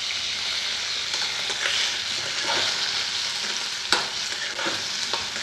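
Chopped tomatoes, onion, carrot and peas sizzling in hot oil in a metal kadhai, stirred with a slotted metal spatula that clicks and scrapes against the pan a few times, the sharpest click about four seconds in. This is the tempered vegetables frying for rava upma just after the tomatoes go in.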